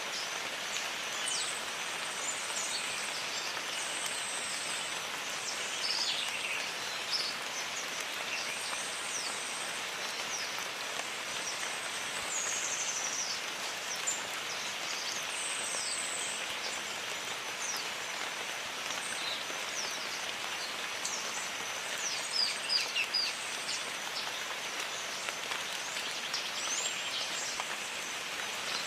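Steady rain in a jungle, with birds chirping and calling throughout in short high notes and sweeps.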